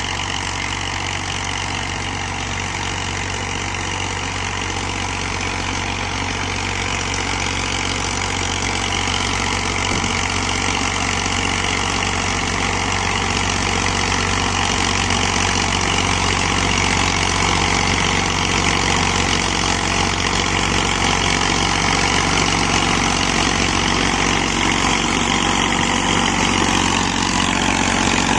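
Massey Ferguson tractor's diesel engine running steadily, slowly growing louder.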